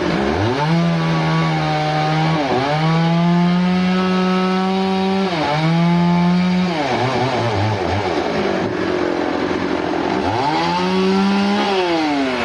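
Chainsaw engine revved to full throttle, its pitch sagging briefly twice before falling back about seven seconds in. It is revved up again near the end.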